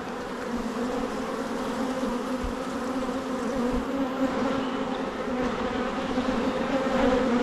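Honeybees buzzing in a dense, steady hum around an opened hive during an inspection, growing a little louder over the stretch.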